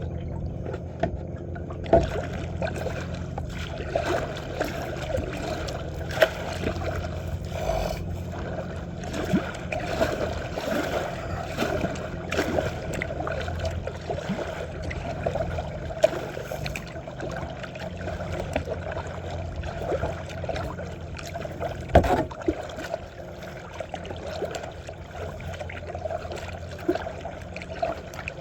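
Kayak paddle strokes dipping and splashing in lake water, with water lapping and trickling around the kayak and a few sharper clicks standing out.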